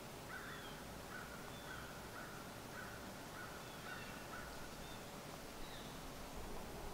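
A bird calling outdoors: about seven short calls in quick, even succession that stop a little past four seconds in, with fainter high chirps above them.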